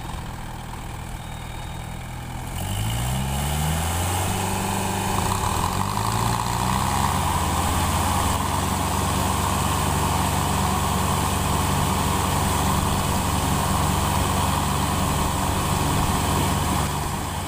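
Tractor diesel engine idling, then revved up in two steps about three and five seconds in, and running steadily at the higher speed.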